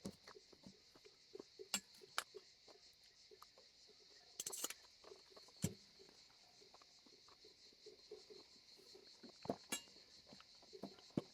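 Cutlery clinking against plates now and then while eating, a few short sharp clicks spread a second or more apart over a faint steady high hiss.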